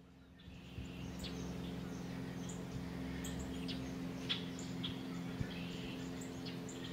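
Birds chirping in short, high calls over a steady low hum, fading in about half a second in.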